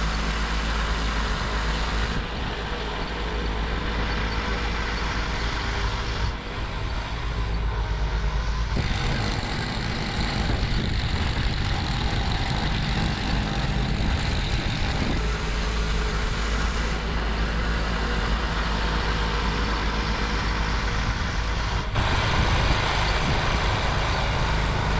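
2004 Toro 826LE two-stage snowblower running steadily under load, its engine drone mixed with the rush of snow being thrown out of the chute.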